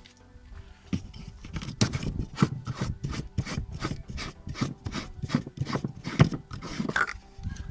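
Repeated rubbing or scraping strokes, about three a second, starting about a second in and stopping shortly before the end.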